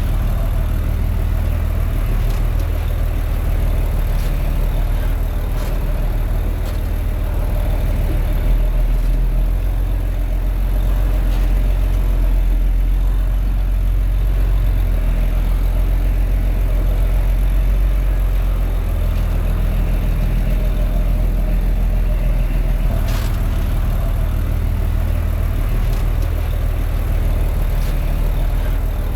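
Komatsu D21A bulldozer's diesel engine running steadily, its note shifting a few times.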